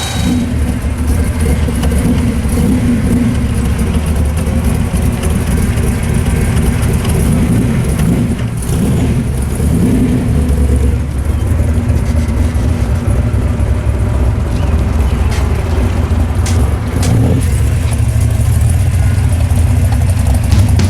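Engine of the supercharged XB Ford Falcon Interceptor replica running loud and heavy, its level rising and falling as it is driven.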